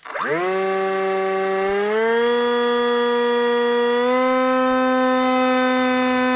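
Electric motor and propeller of a fixed-wing RC model plane spinning up for takeoff: the pitch rises quickly from a standstill, steps up twice (about two and four seconds in) as the throttle is opened further, then holds a steady drone, with a thin steady high whine above it.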